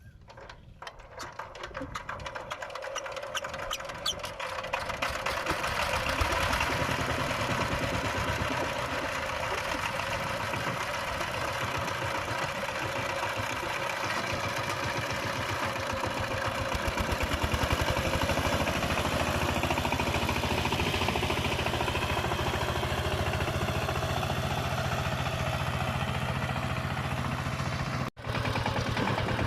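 Power tiller's diesel engine starting: slow separate knocks quicken and grow louder over the first few seconds as it catches and picks up speed, then it runs steadily with an even rapid knocking. It cuts out for an instant near the end.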